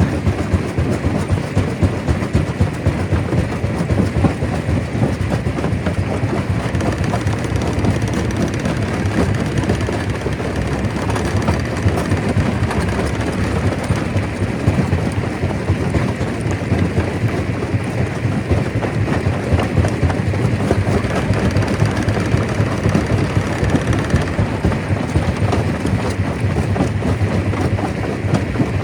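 Stone crusher running: a steady, dense clatter and low rumble of rock being broken.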